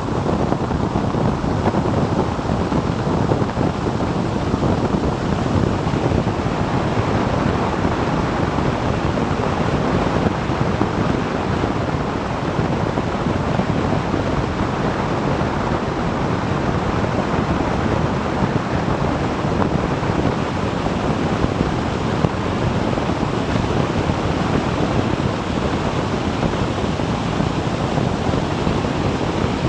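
Steady wind rush buffeting the microphone of a motorcycle moving at speed, with road and engine noise blended underneath.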